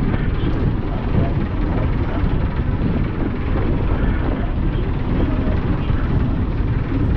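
Steady low rumble and rushing noise aboard the 1951 ferry Thomas Rennie while it is under way.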